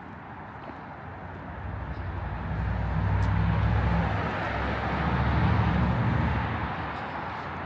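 A motor vehicle passing close by, its engine hum and road noise swelling over a few seconds and fading near the end.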